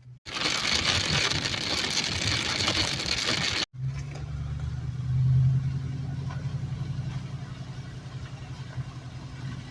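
A loud, even rushing noise for the first few seconds, which breaks off suddenly. Then a vehicle engine running steadily, swelling briefly about halfway through before settling back.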